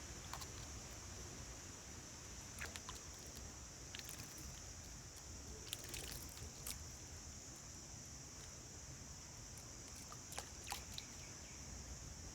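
Faint outdoor garden ambience: a steady high-pitched hiss or drone, with a few short, sharp chirps or clicks scattered through it.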